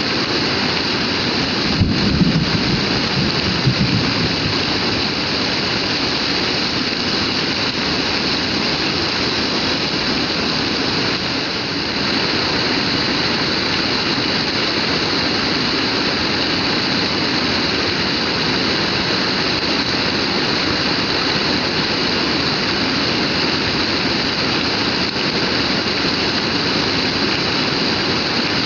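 Heavy rain pouring down in a steady, even rush, with a brief low rumble about two seconds in.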